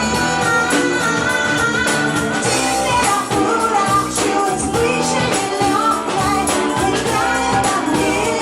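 A band playing a song live, with a wavering lead melody over a full rock backing of guitar, bass and drums.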